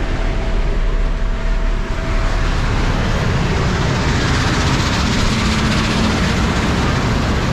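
Heavy diesel truck under way, pulling an empty trailer: steady engine and road noise.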